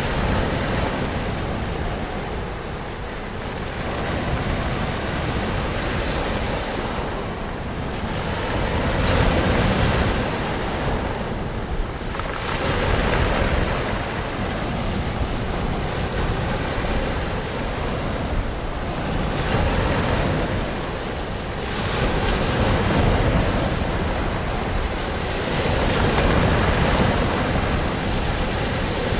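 Ocean waves breaking and washing in continuously, swelling and easing every few seconds, with a rush of wind.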